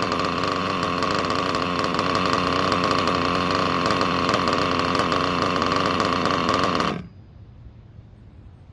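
Small RC nitro engine, worn and low on compression, idling steadily with a high, even buzz, then dying abruptly about seven seconds in: it has loaded up with fuel.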